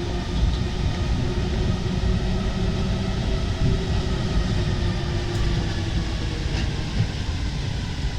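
Alstom MP 05 rubber-tyred Paris Métro train running between stations: a steady low rumble with a few faint, steady whining tones above it.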